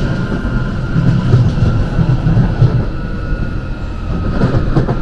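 London Underground Jubilee line train running between stations: a loud, steady rumble of wheels on the track with a thin, steady high whine over it.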